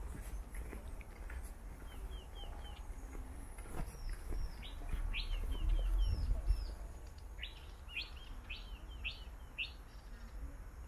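Several small birds chirping: many short, quick, downward-slurred chirps, busiest in the second half, over a low rumble that swells briefly about six seconds in.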